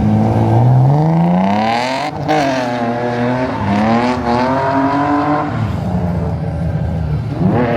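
A drift car's engine revving hard: the pitch climbs steeply over the first two seconds, then stays high and wavers up and down, drops off about five and a half seconds in, and climbs again near the end.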